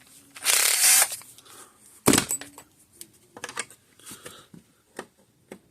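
Small hand-tool work at a bench: a short hiss about half a second in, then a sharp click just after two seconds, and a string of lighter clicks and taps as tools and the screwdriver bit are handled.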